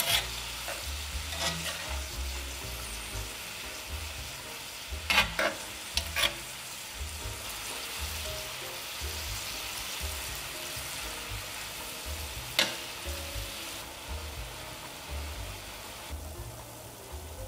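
Chopped beef and bacon sizzling as they fry in a pot, with a few sharp knocks of a utensil stirring and scraping. The sizzle thins out near the end.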